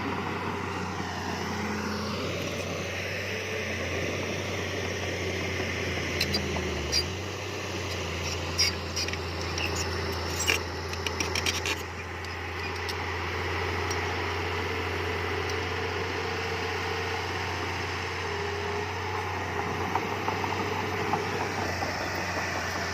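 Diesel engine of a heavy earthmoving machine running steadily, with a run of sharp clicks and knocks about halfway through.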